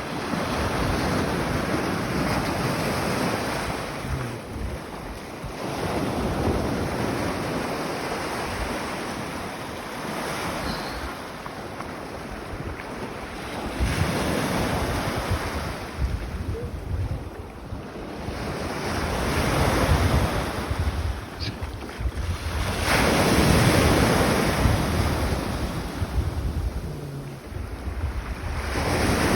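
Baltic Sea waves breaking on the shore, swelling and falling back every few seconds, with wind buffeting the microphone.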